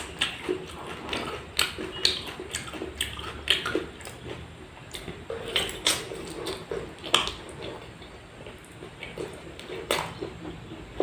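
Close-miked chewing and wet mouth sounds, with frequent sharp smacks and clicks.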